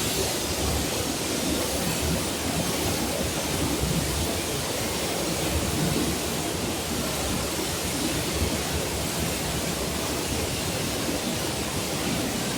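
Flash-flood torrent in a wadi rushing steadily, an even roar of fast-moving floodwater with no breaks.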